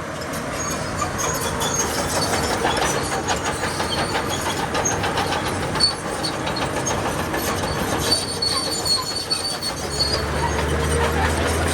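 Crawler bulldozer working, its steel tracks clanking and rattling with occasional squeals over the diesel engine. A deeper engine drone joins near the end.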